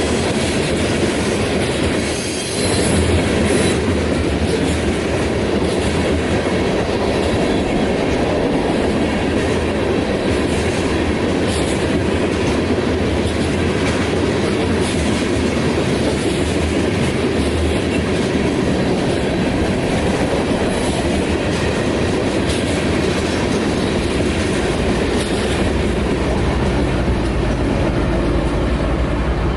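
Freight train rolling past close by: a steady rumble with the clatter of wheels over the rail joints and a brief high wheel squeal about two and a half seconds in. A deeper low rumble builds near the end.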